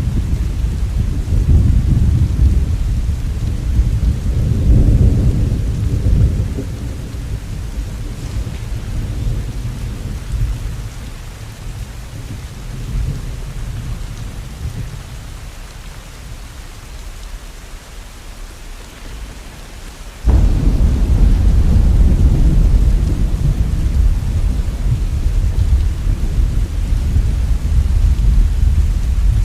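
Steady rain with rolling thunder: a deep rumble fades away over the first half, then a sudden loud thunderclap breaks in about two-thirds of the way through and keeps rumbling.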